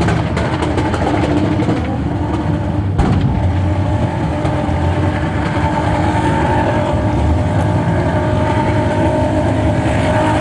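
Car engine running hard at steady high revs, with a sharp knock about three seconds in.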